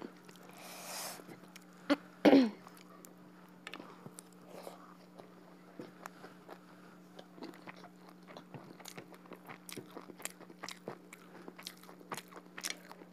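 Close-miked mouth sounds of a person eating rice and duck curry by hand: chewing with many small wet clicks and smacks. A short, louder vocal sound about two seconds in, like a throat clear. A steady low hum runs underneath.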